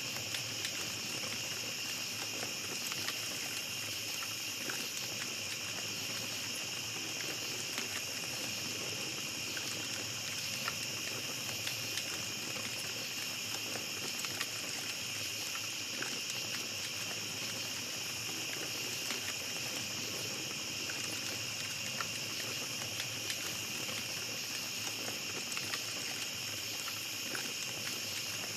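Small campfire crackling, with many faint scattered pops and ticks, over a steady high chorus of night insects.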